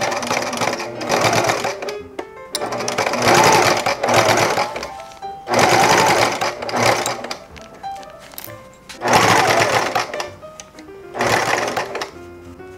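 Electric domestic sewing machine stitching a short seam through layered fabric and PVC, running in about five bursts of one to two seconds with brief stops between them, as in a seam backstitched at each end.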